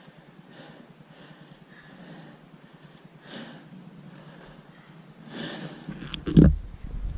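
Heavy breathing close to a helmet microphone, a few slow, noisy breaths. Near the end comes a sharp loud thump, followed by a low rumble.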